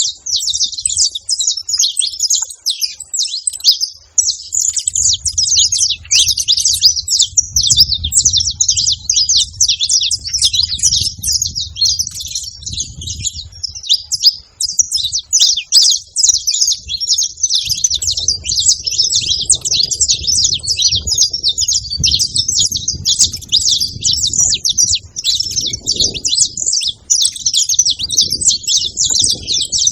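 A flock of saffron finches chirping without pause, many calls overlapping into a dense, high twittering. A low rumble runs underneath for long stretches.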